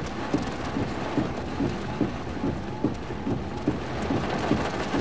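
Heavy thunderstorm rain pelting the vehicle and the ground, a steady dense hiss dotted with many small drop ticks.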